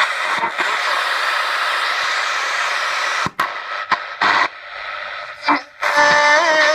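Blaupunkt Frankfurt US car radio being tuned across the FM band: steady static hiss for about three seconds, then dropouts and short snatches of signal as the dial moves. Near the end a station comes in with music and singing.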